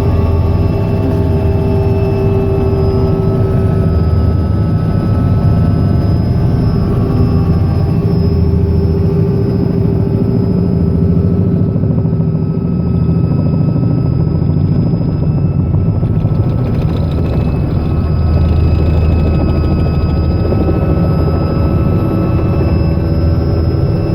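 Robinson R66 helicopter's Rolls-Royce RR300 turboshaft engine and rotor running: a loud, steady drone with several held whining tones that drift slightly in pitch.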